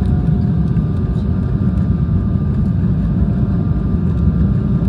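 Airliner cabin noise on approach: engine and airflow noise as a steady low rumble, with a few faint thin steady tones above it.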